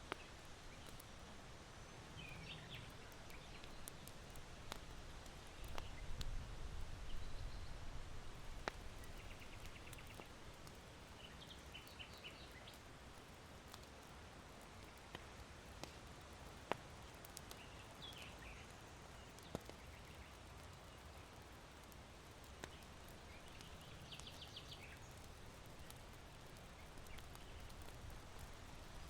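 Charcoal fire in a sunken irori hearth crackling with sparse, sharp pops, while small birds chirp in short bursts every few seconds. A low wind gust swells about six to eight seconds in.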